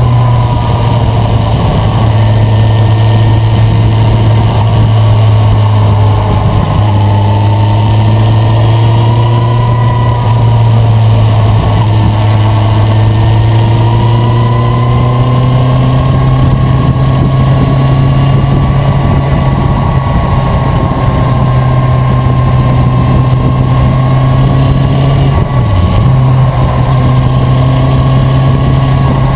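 Motorcycle engine running steadily under way, its pitch drifting gently up and down with speed and briefly dipping near the end.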